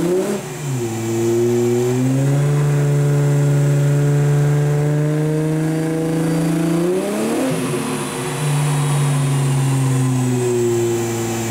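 Holden Commodore's engine running hard under load on a chassis dynamometer, its pitch climbing slowly. The pitch dips and recovers just after the start and again about seven seconds in, like gear changes during the run.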